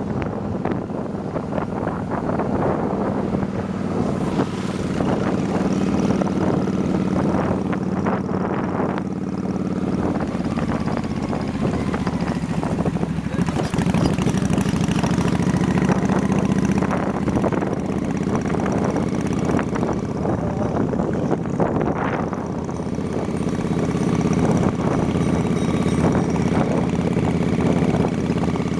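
Motorbike engine running steadily while riding, with wind buffeting the microphone in irregular gusts.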